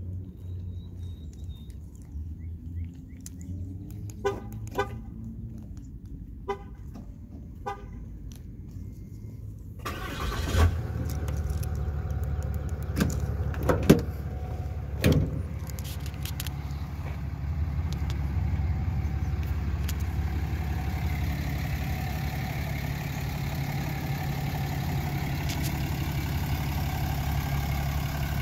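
A Ram 3500's 6.7 Cummins turbo diesel idling, becoming louder and steady from about ten seconds in, with several sharp clunks around then. Earlier, a few short horn toots sound over a low hum.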